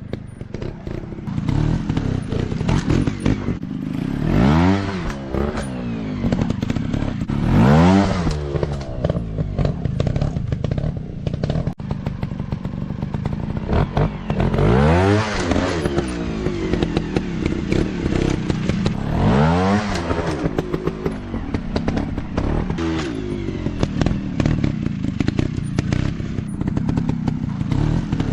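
Off-road dirt bike engines running, revved up and back down several times, with clatter and knocks throughout.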